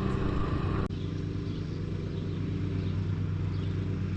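Steady engine hum of a running motor vehicle, with a sudden cut about a second in, after which a similar steady hum goes on.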